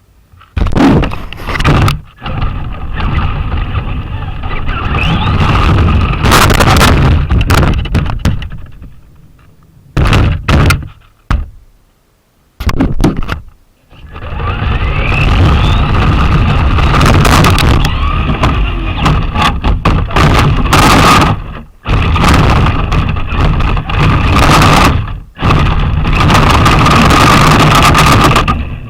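Traxxas Slash RC short-course truck driving, heard from its onboard camera: electric motor whine over rumbling, rattling chassis and tyre noise. It comes in several runs, with short breaks and a pause of about two seconds near the middle, and the whine rises in pitch as the truck speeds up a little after that pause.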